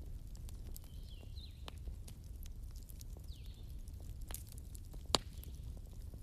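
Fireplace fire crackling: irregular sharp pops and snaps over a steady low rumble, with one louder crack about five seconds in. Faint high chirps sound twice in the background.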